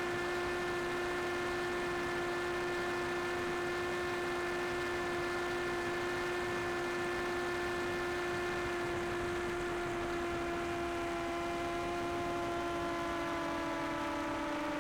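Multirotor drone's propellers humming steadily, one pitch with several overtones that slides slightly lower near the end.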